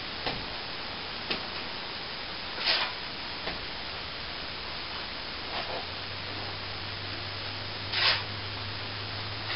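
Steady background hiss with a handful of brief scraping strokes, the loudest about three and eight seconds in, and a low hum joining about six seconds in.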